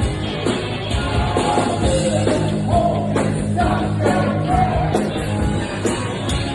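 Live rock band playing, with drums keeping a steady beat under bass and electric guitar, and a lead vocalist singing over it.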